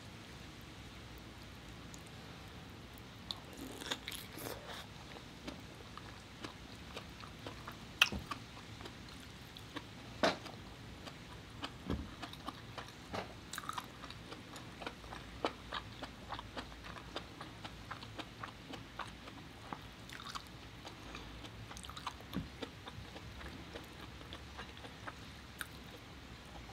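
Close-up eating sounds of lobster meat being chewed: scattered short, wet mouth clicks and smacks that start about three seconds in, the sharpest about 8 and 10 seconds in.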